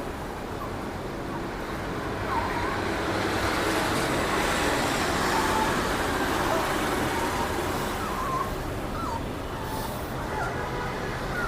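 Steady road traffic noise, swelling slightly in the middle, with a few faint short squeaks over it.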